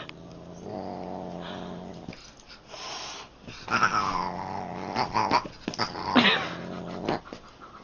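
A pet growling low in two long stretches, with several higher calls that rise and fall in the second stretch.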